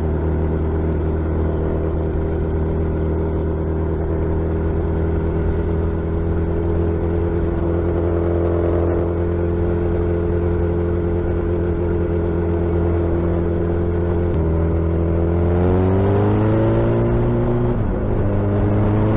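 Suzuki Hayabusa inline-four motorcycle engine and exhaust, heard from the bike itself, running at a steady cruise, then revving up about fifteen seconds in, with a short drop in pitch near the end, as at a gear change, before pulling up again.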